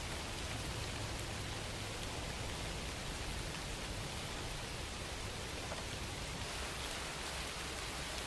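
Steady rain falling, an even hiss with scattered faint drop ticks and a low rumble beneath.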